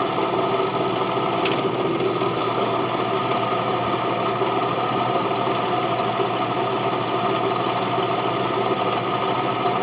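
A motor-driven shop machine running steadily: a constant mechanical drone with a faint high whine.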